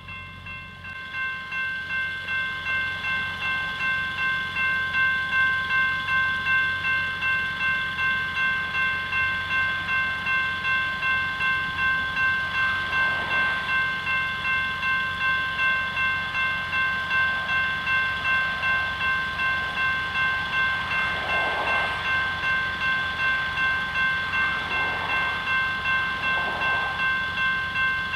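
Railroad grade-crossing bell ringing steadily at about two strokes a second while a freight train rolls past with a low rumble.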